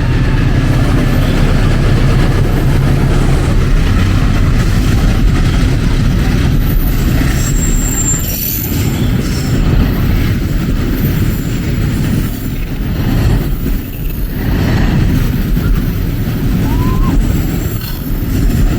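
A train passing close by, its wheels rumbling steadily on the rails, with a few brief high metallic squeals in the middle.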